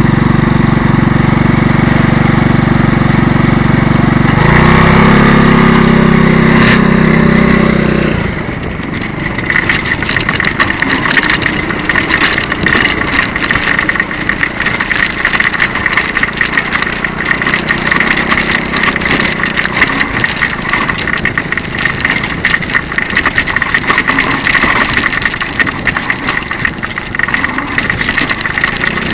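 The NomadOmatic x2 trike's 150cc engine idling steadily, then revving higher about four seconds in. From about eight seconds the engine tone gives way to wind buffeting and crackling on the microphone, with the engine running faintly underneath as the ride gets under way.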